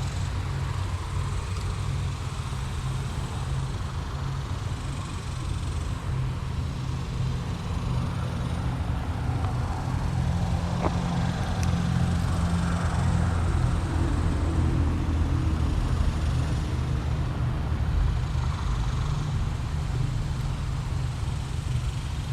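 Steady low rumble of road traffic, swelling slightly in the middle, with a single short click about eleven seconds in.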